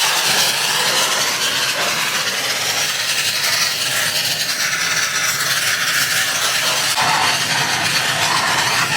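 Steam cleaner spraying pressurized steam and water over an engine being cleaned for a rebuild: a loud, steady hiss.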